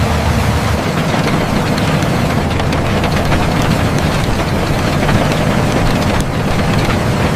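Tractor engine running steadily, a loud rough rumble with a few faint clicks.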